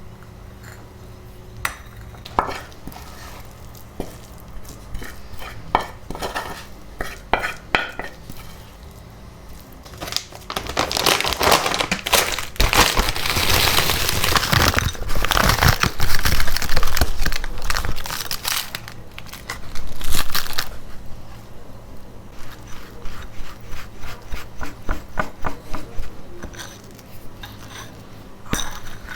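Kitchen handling sounds: scattered clinks of dishes and utensils, a loud crinkling stretch of about ten seconds in the middle, then a run of quick, evenly spaced knocks near the end.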